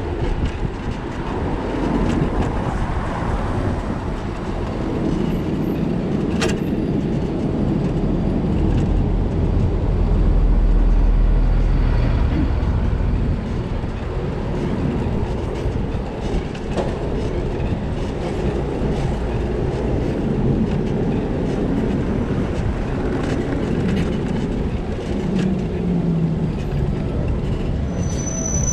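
Steady rumble and rattle of a bicycle ride over wet city streets, with a brief high-pitched squeal near the end.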